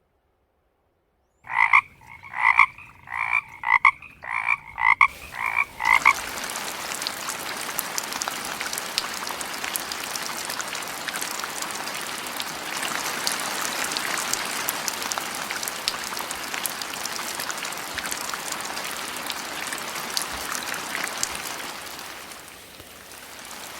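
A frog croaking in a quick series of about ten short calls, roughly two a second. After about six seconds it gives way to a steady hiss of water noise with a light patter.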